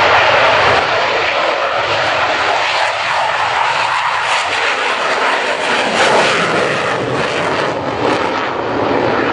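F-16AM Fighting Falcon's Pratt & Whitney F100 turbofan running at high power, a loud, steady rush of jet noise with short crackles around the middle.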